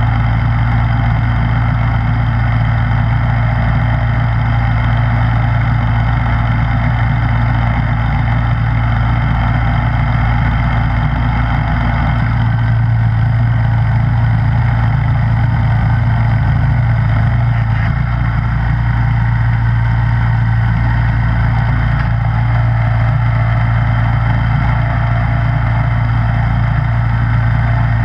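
Snowblower engine running at a steady speed, a constant hum with the churn of the machine over it.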